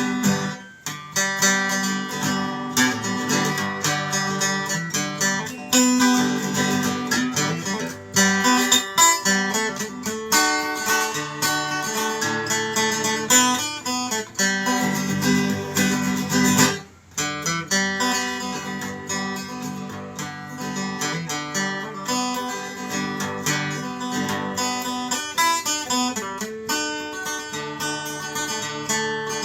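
Instrumental music: acoustic guitar plucked and strummed, with a short break about 17 seconds in.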